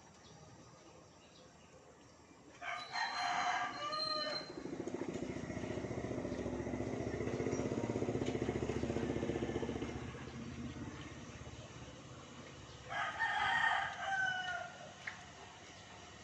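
A rooster crows twice, about 3 seconds in and again near the end, each crow lasting under two seconds. Between the crows, a low rumble with a fast even pulse swells and then fades away.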